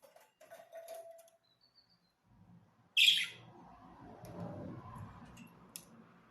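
Pet budgerigars chirping: scattered short clicks and chirps, then one loud, sharp high-pitched call about three seconds in, followed by soft rustling.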